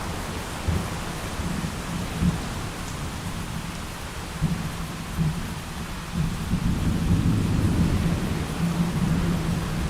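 Thunderstorm: steady heavy rain with low rolling thunder underneath, the rumble swelling louder about two thirds of the way through.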